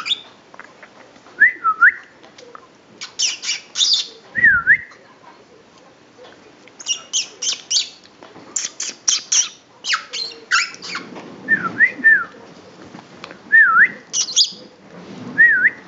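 Senegal parrot calling: short whistles that swoop down and back up, repeated every second or two, between quick bursts of sharp, high squawking notes.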